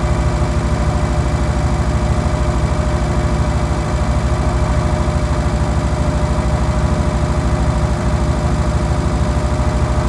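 1972 Mini's 998 cc A-series four-cylinder engine idling steadily, still cold shortly after a cold start, with the idle set a little high.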